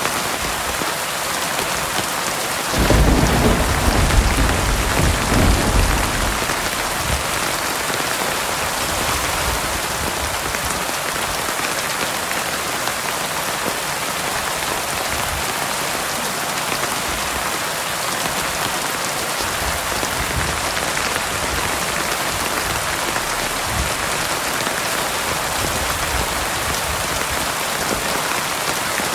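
Heavy rain falling steadily, with a loud rumble of thunder that begins about three seconds in and dies away a few seconds later, and fainter low rumbles further on.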